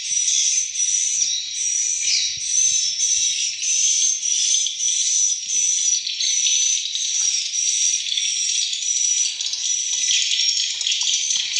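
Swiftlets twittering in a dense, high chorus, with a bright chirp repeating evenly about one and a half times a second.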